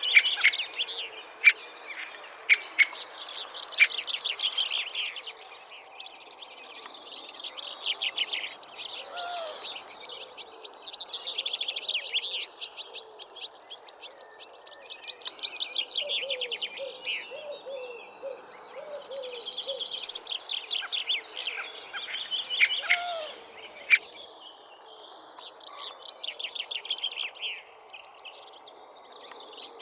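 A songbird singing, repeating a phrase of rapid high notes lasting two to three seconds and coming again every few seconds, over faint background noise.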